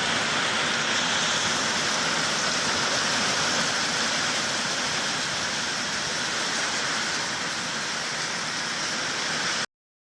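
Heavy rain pouring down in a steady, dense hiss, cutting off suddenly near the end.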